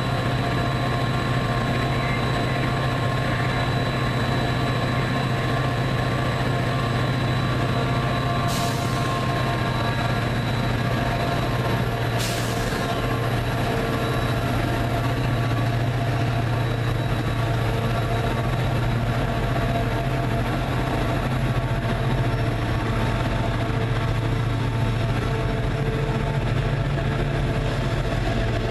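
Commuter train idling at the platform: a steady low engine hum with several steady tones above it. Two short, sharp sounds come about 8 and 12 seconds in.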